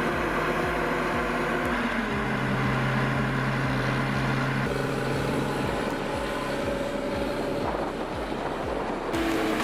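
Engine of heavy logging machinery running steadily, its note changing abruptly a few times.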